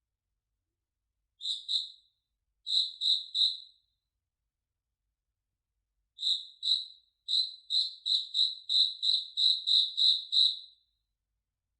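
Cricket chirping at a steady high pitch in short groups: two chirps, then three, then after a pause a longer even run of about a dozen chirps, roughly three a second.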